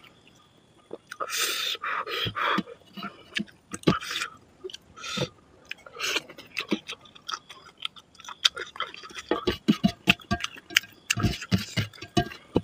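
Close-up eating sounds: wet chewing and lip-smacking of chicken curry and rice eaten by hand, with many short sharp clicks that come thicker in the second half.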